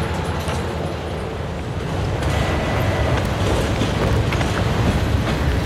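A train with diesel locomotives passing close by. Its low engine rumble is steady and grows louder about two seconds in, with scattered sharp clicks from the wheels on the rails.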